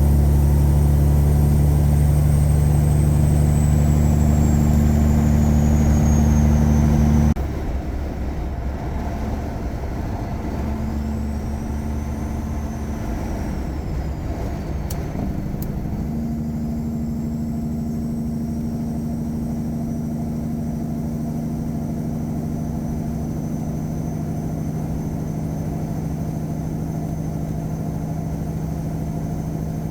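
Caterpillar 3406E diesel in a Freightliner Classic running under load with a high whistle falling in pitch. About seven seconds in, the engine drops suddenly to a quieter, steady run.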